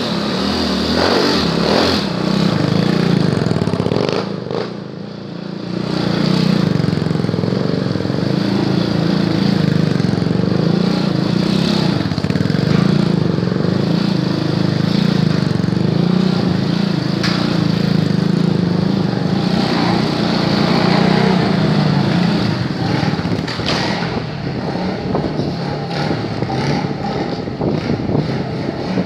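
Motorcycle engine held at steady throttle while the bike is ridden on its back wheel in a wheelie, with a brief drop in revs about five seconds in and a more uneven engine note near the end.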